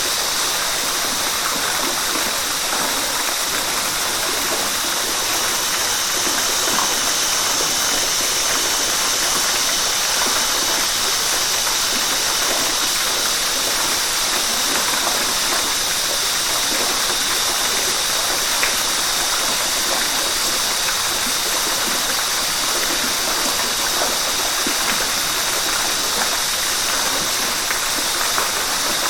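Rushing river water: a steady, unbroken rush with a bright hiss and no change in level.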